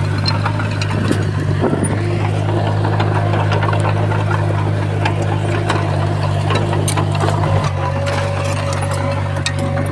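Heavy earthmoving machine's diesel engine running steadily under work, with scattered sharp clicks and clanks over it.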